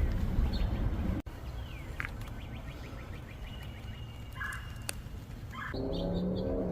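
Birds chirping outdoors: scattered short chirps and brief high sweeping calls over a steady low background rumble.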